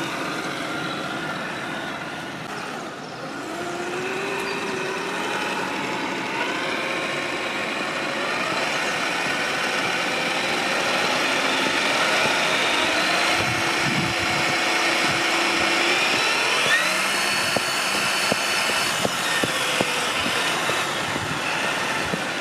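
Traxxas TRX-4 Bronco RC crawler's electric motor and gearbox whining, the pitch rising and falling as the throttle changes. A few sharp clicks come in the last few seconds.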